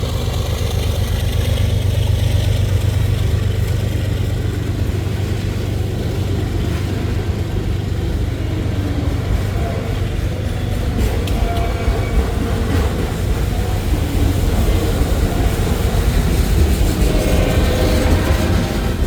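Diesel freight train passing: the GE ES44AC and AC44CW locomotives' engines with a heavy low hum, giving way to the steady rumble and clatter of freight cars rolling by, with a few brief wheel squeals.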